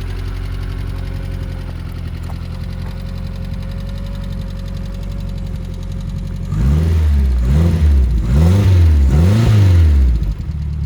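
Renault 5 Alpine Turbo's turbocharged four-cylinder engine idling steadily. About two-thirds of the way in, the throttle is blipped four times in quick succession. Each blip rises and falls in pitch, and the engine then settles back to idle.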